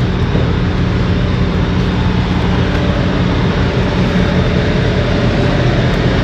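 Diesel engine idling steadily, a constant low hum under a broad rushing noise.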